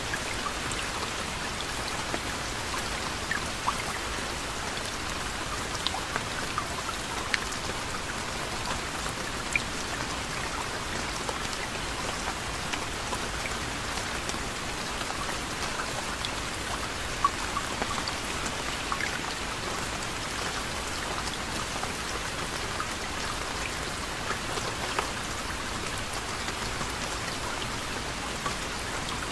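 Steady gentle rain, with many individual drops ticking sharply on a surface over an even hiss.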